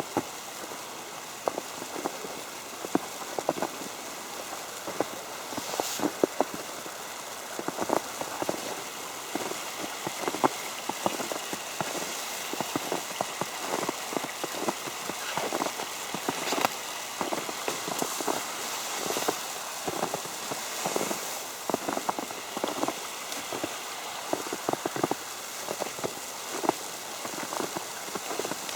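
Falling snow tapping on an umbrella overhead: many small, irregular ticks over a soft steady hiss, like light rain.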